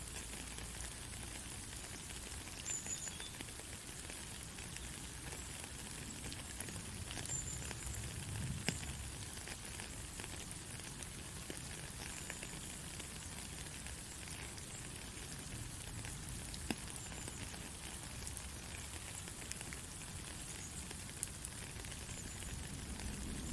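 Rain falling steadily: an even hiss with scattered sharp ticks of single drops.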